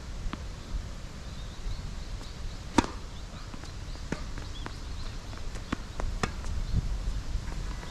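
Tennis ball being struck by rackets and bouncing on a hard court during a rally, as a few sharp pops a second or more apart, the loudest a little under three seconds in. Wind buffets the microphone as a low rumble underneath.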